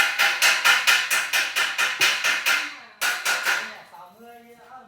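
Rapid hammering on metal, about five ringing blows a second for roughly two and a half seconds. After a short break come a few more blows, and two more near the end.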